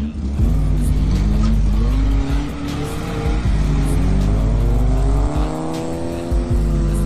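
Off-road Yugo's small four-cylinder engine revving hard under load as the car drives through deep leaf litter, the pitch rising and falling several times.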